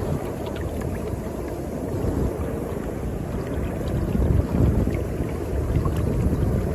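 North Sea surf washing in, a steady low rush with faint fizzing crackles, swelling about four seconds in, with wind buffeting the microphone.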